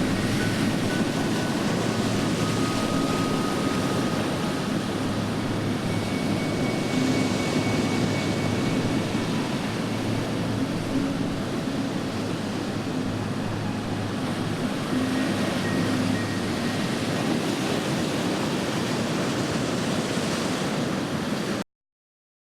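Steady rushing noise with a low hum underneath; it cuts off abruptly near the end.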